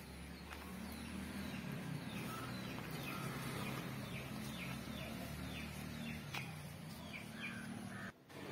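Birds chirping: a run of short, falling chirps repeated over and over, over a low steady hum.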